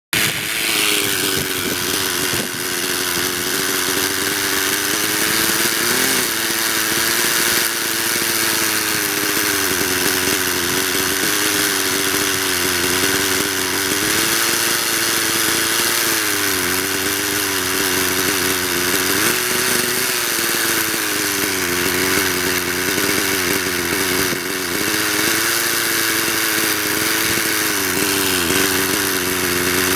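Hirobo engine-powered RC helicopter running in flight, its engine and rotor note wavering up and down every few seconds.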